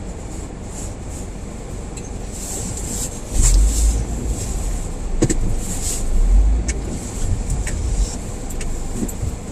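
Car driving slowly over a snow-covered road: a steady engine and tyre rumble. Heavy low thumps and scattered crunching clicks set in about three and a half seconds in.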